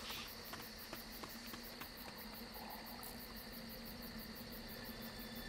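Faint cricket chirping, a thin high pulse repeating about four to five times a second, over a steady low hum.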